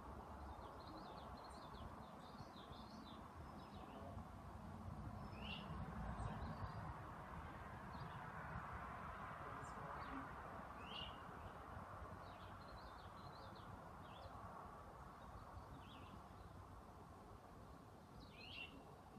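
Faint, scattered chirps of small birds over a low background rumble and hiss, with a few clearer chirps about five, eleven and eighteen seconds in.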